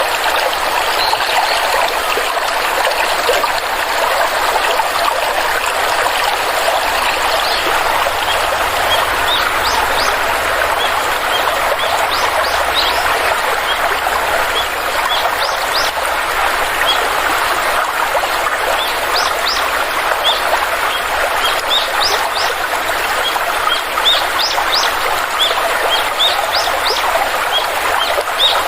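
Steady rush of a flowing stream, with small birds giving short, high chirps over it from about a third of the way in, more often near the end.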